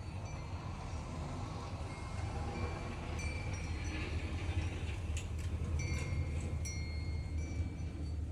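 Steady low wind rumble, with metal wind chimes tinkling in short, scattered rings.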